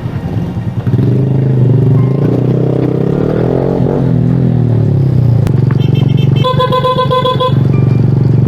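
Suzuki Smash motorcycle's small single-cylinder four-stroke engine running on fresh oil, its pitch rising and then falling as it is revved or ridden. A rapid pulsing beep sounds for about a second near the end.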